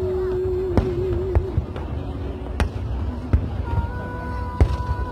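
Fireworks display: shells bursting in about six sharp bangs at uneven intervals, with steady held tones sounding between them.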